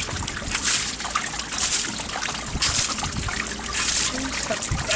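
Water splashing and trickling in a regular rhythm, a splash about once a second.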